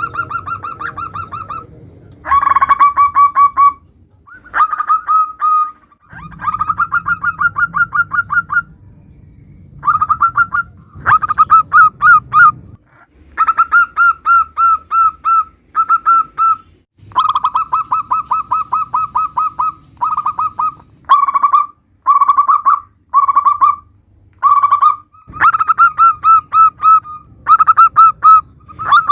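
Zebra doves (perkutut) cooing in a series of rapid, trilled coo phrases, each a second or two long, repeated with short gaps.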